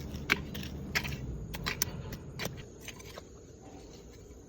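Hand gardening in dry, crumbly soil: scattered sharp ticks and scrapes over a low rustle, which fades about halfway through.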